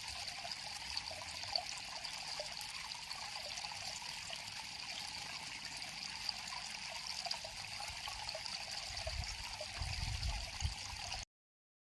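River water flowing steadily, a continuous babble and trickle over stones. A low rumble swells in beneath it near the end, and the sound cuts off abruptly about eleven seconds in.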